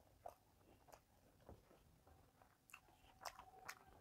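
Faint mouth sounds of someone chewing a mouthful of rice and vegetables: a few soft, scattered clicks and smacks, closer together near the end.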